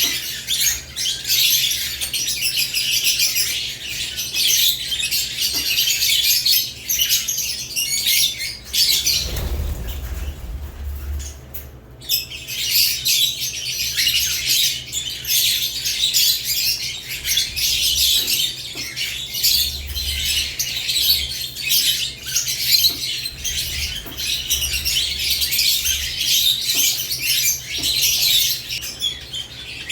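Caged lovebirds chattering with dense, high-pitched chirps and squawks. The chatter drops out for about three seconds about a third of the way in, where a low rumble is heard, then resumes.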